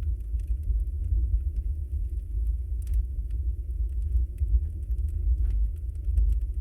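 Wood fire burning in a fireplace: a steady low rumble with scattered light crackles and a couple of sharper pops, about three seconds in and again near five and a half seconds.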